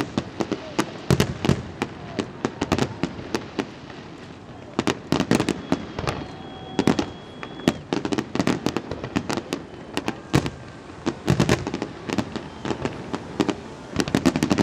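Aerial fireworks display: a rapid, continuous series of shell bursts and crackling bangs, with a brief quieter spell about four seconds in.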